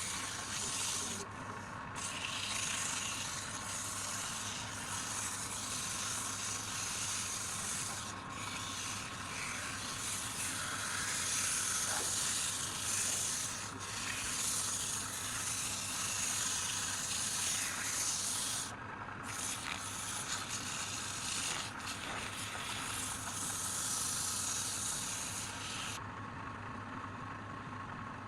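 Wood lathe running with a steady low hum while the spinning workpiece is sanded, a dense rubbing hiss that breaks off briefly a few times and stops near the end, leaving only the motor hum.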